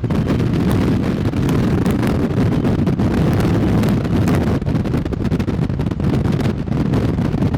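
Wind buffeting the microphone: a loud, ragged low rumble with gusts.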